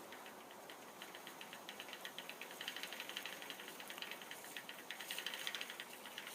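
Faint, rapid clacking of a bicycle chain running through the pulleys of a 1972-era Huret rear derailleur. The owner believes it is the chain links slapping against the pulleys as they wind through, partly worsened by the old derailleur cage not being perfectly straight.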